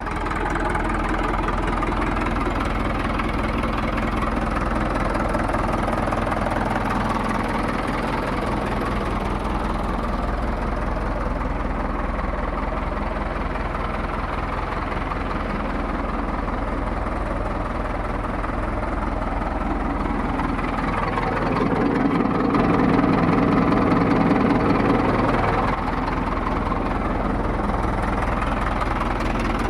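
Mahindra 585 DI tractor's diesel engine idling steadily, with a light knocking note. It grows louder for a few seconds about two-thirds of the way through, then settles back to idle.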